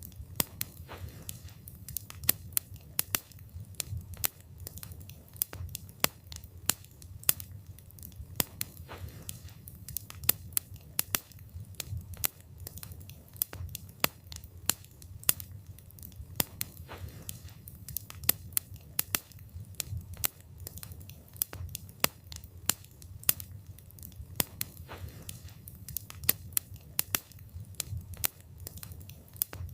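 Wood fire burning, the wood crackling and popping in frequent sharp, irregular snaps over a low, steady rumble of flame.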